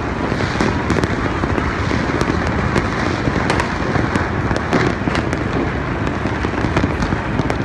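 New Year's fireworks and firecrackers going off all at once, a continuous crackle of many overlapping pops with sharper cracks scattered throughout.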